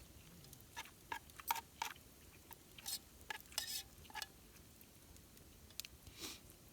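Faint, irregular light clinks and taps of eating or cooking utensils against cookware, about a dozen in all.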